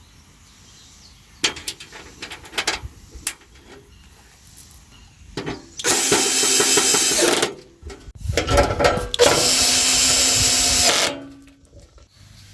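Cordless power drill driving screws in two runs of about one and a half to two seconds each, after a few light clicks and knocks from handling parts.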